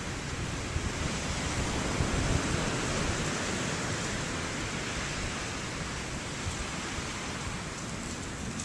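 Wind blowing hard in near-blizzard conditions, a continuous rushing noise with a low rumble of wind buffeting the microphone. It swells about two seconds in and then eases slowly.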